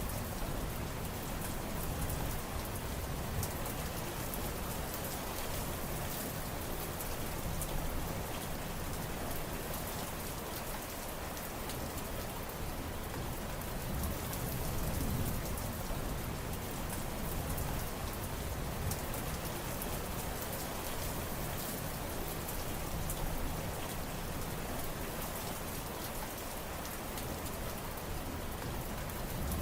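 Steady rain falling, a dense patter of drops, with a low rumble underneath that swells and eases every several seconds.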